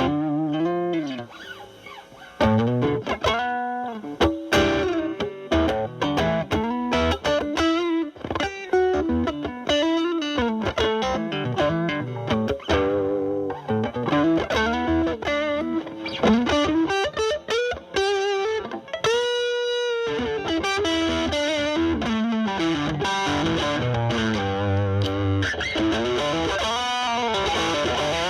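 Electric guitar (Stratocaster) through a Boss DS-2 Turbo Distortion pedal into a Marshall Valvestate amp's drive channel, set to a cleaned-up, lightly driven tone. It plays single-note lead phrases with string bends and vibrato, including a long vibrato note about two-thirds of the way through.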